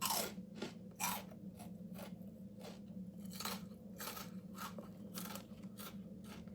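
Crunchy cheese crackers being chewed with the mouth close to the microphone: a run of short, sharp crunches, the first two the loudest.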